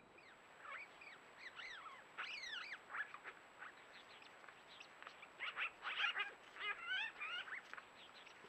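Birds calling: clusters of short, squeaky calls, quick chirps that swoop up and down in pitch, with the busiest run about five to seven and a half seconds in.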